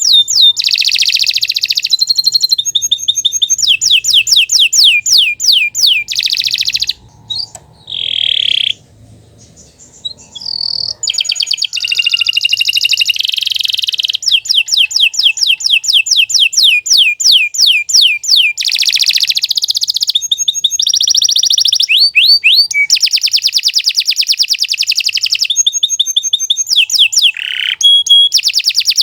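Domestic canary singing long, rapid trills and rolls of quickly repeated rising notes, changing from one trill type to the next. The song breaks off briefly about seven seconds in and resumes about four seconds later.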